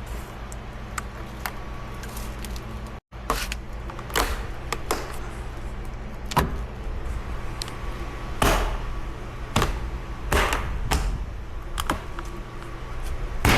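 Scattered clicks and knocks of a part being handled and fitted onto a car door, over a steady low hum.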